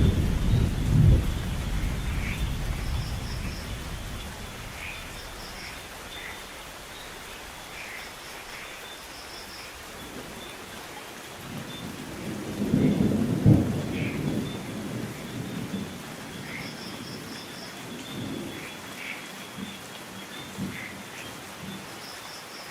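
Steady rain falling during a thunderstorm. A low rumble of thunder dies away over the first few seconds, and a second rumble swells and fades about halfway through. Faint short high chirps recur in small groups over the rain.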